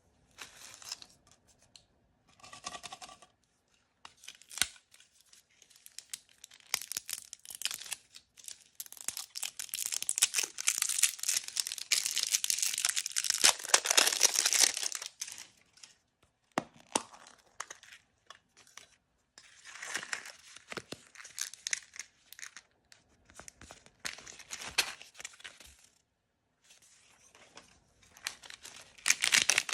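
Plastic blind-bag and wrapper packaging being torn open and crinkled by hand, in irregular bursts, with the longest and loudest tearing in the middle.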